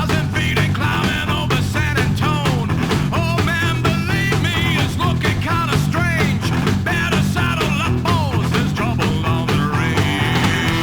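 Rockabilly band playing an instrumental stretch: an electric guitar lead full of bending notes over bass and drums, settling into held notes near the end.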